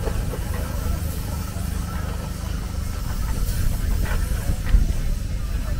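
Steam traction engines running at a crawl, a steady low rumble with a faint hiss above it and a brief low thump near the end.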